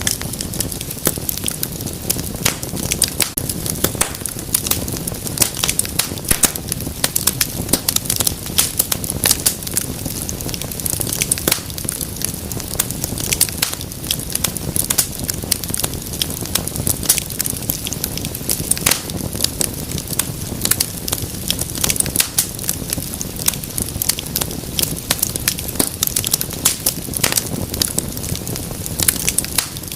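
Wood fire burning in a fireplace: a steady low rush of flame with dense, irregular crackles and pops.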